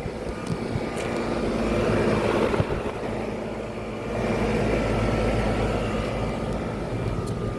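Outdoor air conditioner condensing unit running: the condenser fan whooshing over a steady compressor hum with a few held tones.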